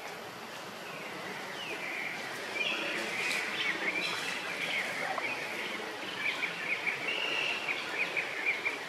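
Birds chirping and calling in the trees over a steady background hiss, with a quick run of short repeated chirps, several a second, in the second half.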